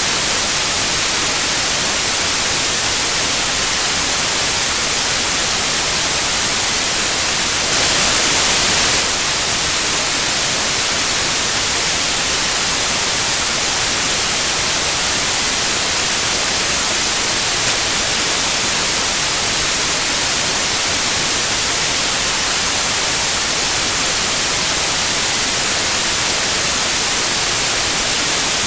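Tinnitus sound-therapy signal: a steady hiss of white noise with a continuous, very high 9645 Hz pure tone running through it. The noise swells slightly for about a second, roughly a third of the way in.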